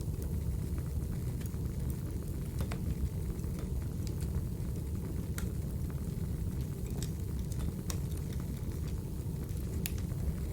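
Crackling wood fire: a steady low rumble with irregular sharp pops and snaps scattered through it.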